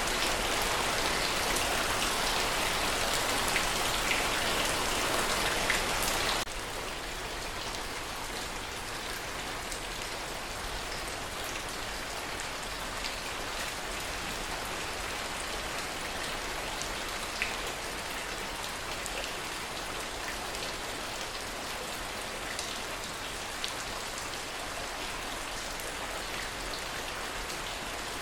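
Steady heavy rain. About six seconds in it drops suddenly to a quieter, lighter rain, with scattered single drops ticking.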